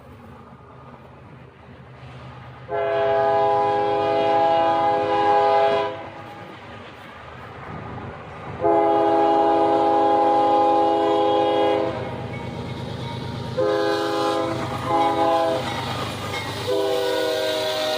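Locomotive air horn sounding the grade-crossing signal, long, long, short, long, with the last blast held on, over the low rumble of the approaching train.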